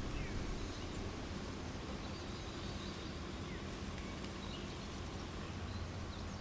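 Outdoor ambience: a steady hiss of background noise with a few faint, brief bird chirps.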